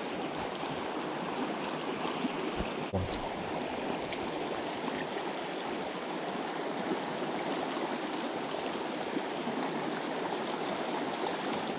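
Small mountain stream flowing steadily, an even rushing water sound, with a couple of soft low knocks about three seconds in.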